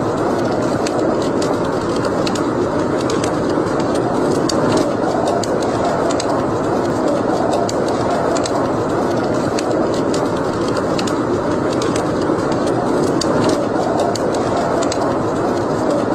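Wood fire burning in a fireplace: a steady rushing sound with frequent sharp crackles and pops scattered irregularly through it.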